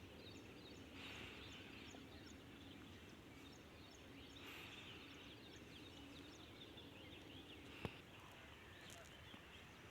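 Faint outdoor ambience with scattered short bird chirps. A single sharp click about eight seconds in.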